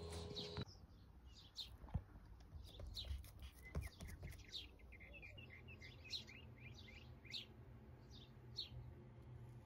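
A small bird chirping over and over in the background, a quick string of short, high chirps. A sharp click about two seconds in and another near four seconds stand out as the loudest sounds.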